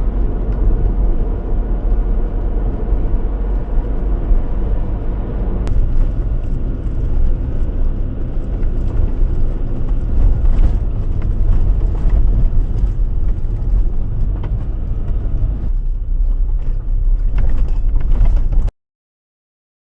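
A car driving at steady speed, with a loud, constant rumble of engine and road noise. It cuts off abruptly near the end.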